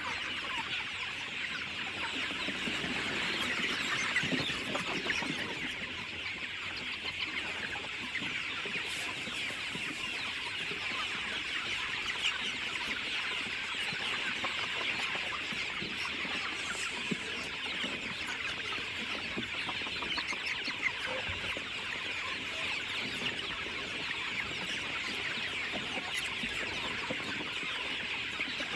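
A flock of chickens clucking and chattering together, a dense, steady mix of many overlapping calls.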